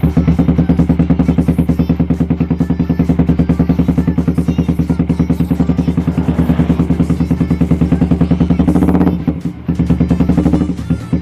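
Yamaha Vixion's single-cylinder four-stroke engine idling through an aftermarket racing exhaust, a fast, even pulsing beat. It drops away briefly about nine seconds in, with background music under it.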